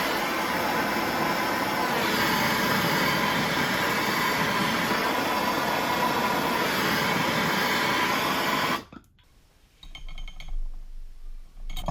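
Steady rushing hiss of a heater warming a steel plate from underneath to heat a motorcycle steering-head bearing. It cuts off suddenly near the end, followed by a few faint knocks.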